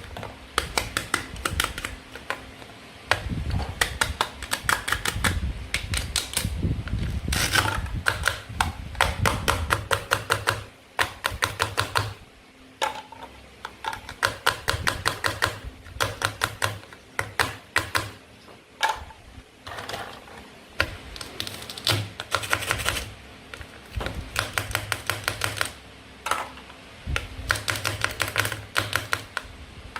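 Toy play food being cut: quick runs of sharp plastic clicks and taps, several a second with short pauses between runs, and a few duller thumps about three to seven seconds in.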